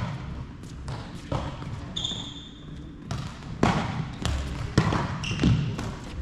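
Game sounds on an indoor court: a ball knocking sharply several times and two brief high shoe squeaks on the floor.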